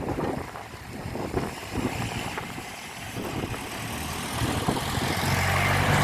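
An engine running with a low rumble, growing louder over the last couple of seconds as a steady low hum comes in, with wind buffeting the microphone.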